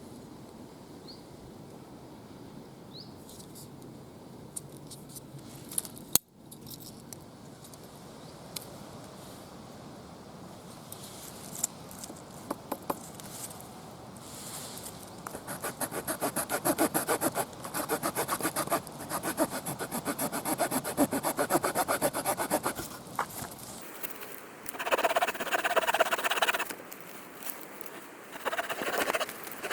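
The wood saw blade of a Victorinox Soldier pocket knife cutting wood in rapid back-and-forth rasping strokes, which begin about halfway through and come in spells. Before that, the sound is quiet open-air ambience with a few faint bird chirps.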